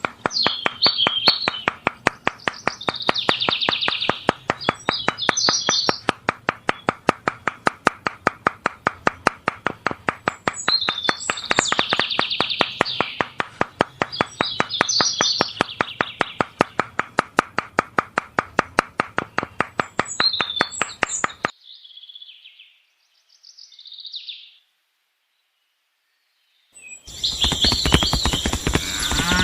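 Birds chirping in short bursts over a steady rapid clicking, about four or five clicks a second, which stops about 21 seconds in. After a short quiet gap, a cow starts mooing near the end.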